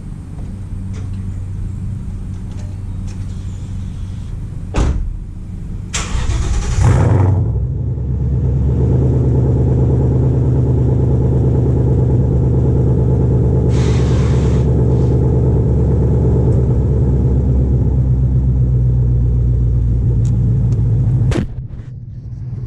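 Ford Mustang GT's 5.0 V8 starting about six seconds in with a short loud burst, then idling with a steady, deep, even tone through freshly fitted Flowmaster mufflers on a catless X-pipe. A sharp click is heard just before the start, and another near the end.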